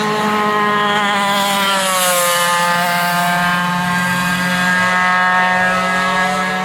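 Go-kart engines running on a race track: one steady engine note holds underneath while another kart's engine drops in pitch about two seconds in and revs back up near the end, as karts slow and accelerate around the course.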